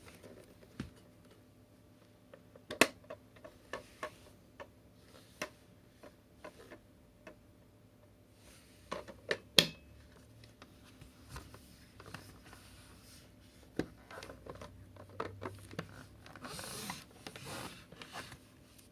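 Scattered sharp clicks and knocks of hard plastic, as the parts and attachments of a cordless stick vacuum are handled and fitted together, with a brief rustle near the end. The vacuum's motor is not running.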